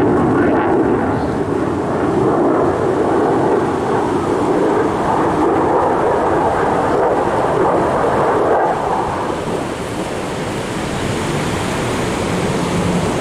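Aircraft passing over: a loud, rumbling roar that fades about nine to ten seconds in.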